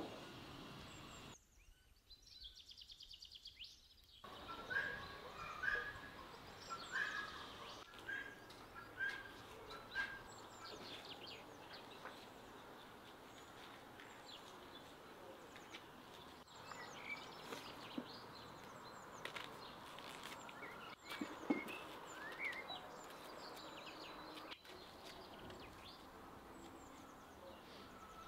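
Small birds chirping, with a run of short repeated chirps about once a second, over faint steady background noise. A few sharp clicks come later, the loudest about two-thirds of the way in.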